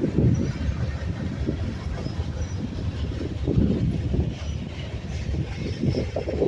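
Freight cars of a manifest train rolling past, steel wheels clattering over the rail joints in an uneven, continuous run.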